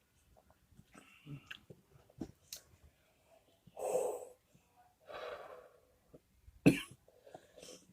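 A man coughing and breathing hard from the burn of a Reaper-pepper hot sauce at the back of his throat. Small mouth clicks come first, then two heavy breathy exhales about four and five seconds in, and a sharp cough near the end.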